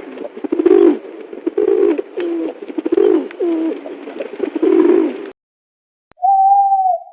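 Pigeons cooing: a run of repeated low calls that cuts off suddenly about five seconds in. Near the end comes one short steady tone, a higher note held for under a second.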